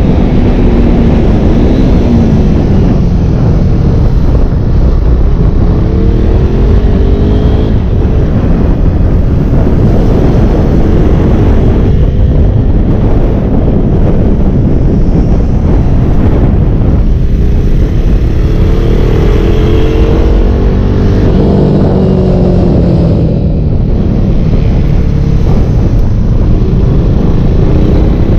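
KTM RC single-cylinder motorcycle engine heard from onboard at speed, its note rising and falling again and again as it accelerates and slows, under a loud rush of wind on the microphone.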